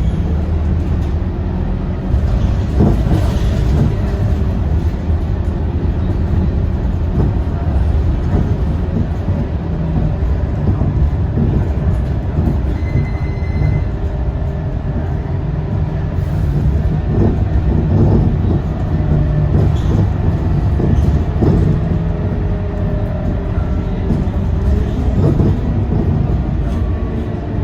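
A Scania K230UB bus's five-cylinder diesel engine running steadily under way, heard as a low drone with the body rattling and knocking over the road. There is a short high beep about halfway through.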